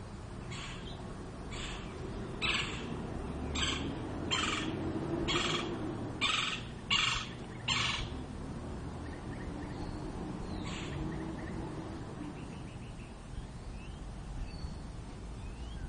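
Woodpecker giving a series of about nine short, harsh, rasping calls in quick succession, then one more a few seconds later, with faint chirps near the end.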